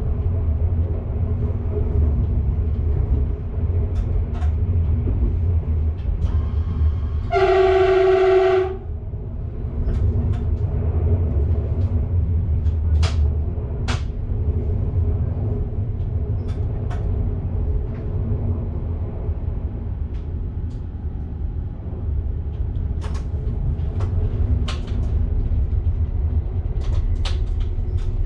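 Train running along the track heard from the driver's cab, a steady low rumble, with one horn blast of about a second and a half roughly a quarter of the way in. Short sharp ticks come and go throughout.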